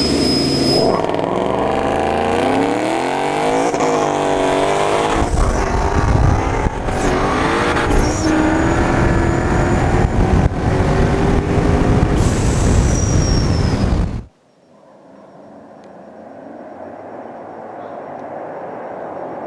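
Several high-powered street cars accelerating hard, engine pitch climbing and dropping again at each gear shift. About fourteen seconds in the sound cuts off abruptly, replaced by a much quieter rumble that slowly grows louder.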